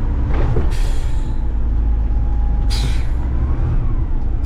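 Front-load garbage truck engine running steadily with a low rumble, with two short bursts of air hiss from the truck's air system, one about a second in and one near three seconds.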